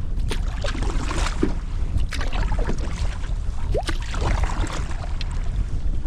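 Heavy wind buffeting the microphone with a steady low rumble, over irregular splashing and sloshing of water around a paddled canoe in wind-driven chop.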